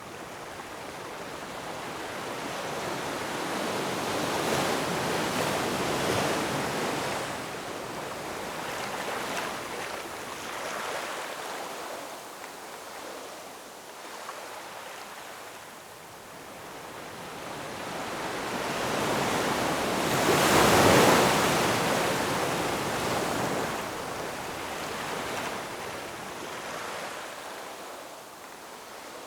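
Ocean waves breaking and washing up the shore in slow swells, the loudest surge building to a peak about two-thirds of the way in and then fading.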